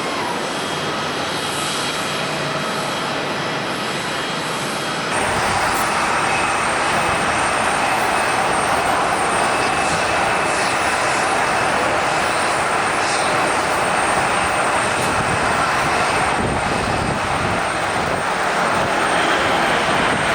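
Jet airliner engines running with a steady whine over a broad rushing noise. About five seconds in, the sound abruptly becomes louder and fuller, then stays steady.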